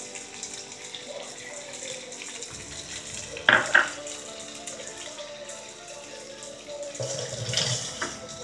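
Sliced onions, curry leaves and spices sizzling in hot oil in a small metal pan: a tempering being fried. Two sharp knocks come about three and a half seconds in, and a few more clatters near the end.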